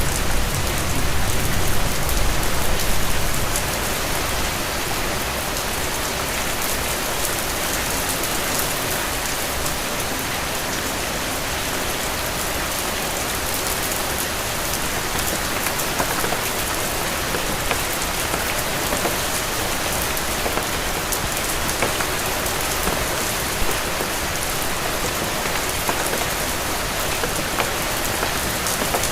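Steady rain falling on a road, a dense hiss full of small drop taps. A low rumble underneath fades out about three seconds in.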